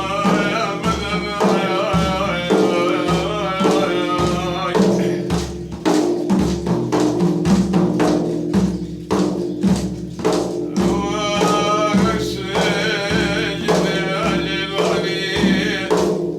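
A devotional madih sung by a man with hand-drum and tambourine accompaniment beating steadily. The voice stops about five seconds in, leaving the drums alone, and comes back at about eleven seconds.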